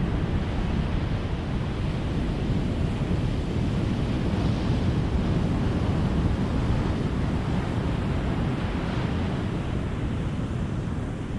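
Ocean surf breaking and washing on a beach, a continuous rumble with waves swelling about four and a half and nine seconds in.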